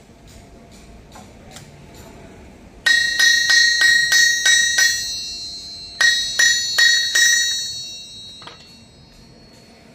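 A 133 kg cast steel anvil struck with a hammer in two quick runs, about seven blows, a pause, then four more. Each blow rings with a clear high tone that fades away over a second or so after the last strike.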